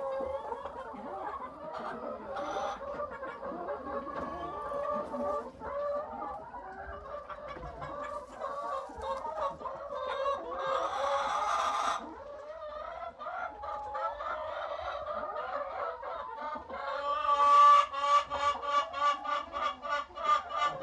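Chickens clucking steadily, with one longer, louder call about halfway through and a fast run of repeated loud cackles in the last few seconds.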